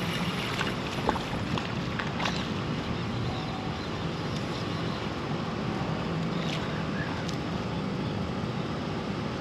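Steady wind noise on the microphone with water moving against a kayak, and a few faint taps.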